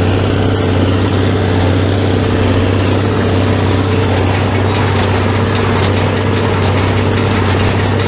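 Tractor engine running steadily at working speed. About halfway through, a fast, regular clicking joins the engine sound.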